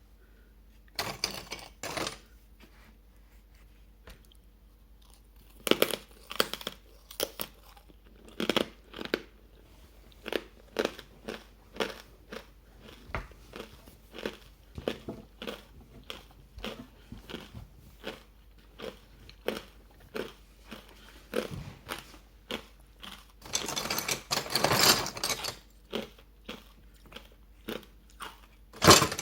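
Close-miked crunching and chewing of hard ice dusted with matcha green tea powder. A couple of crunches about a second in, a pause, then steady crunching bites every half second to a second, with a denser run of crunching near the end.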